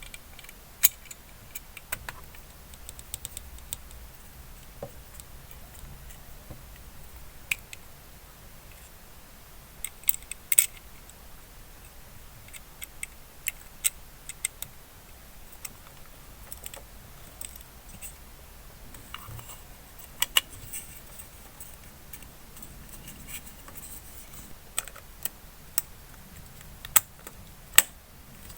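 Small hard parts of a diecast model car clicking and tapping as they are handled, in irregular scattered clicks with a few small clusters.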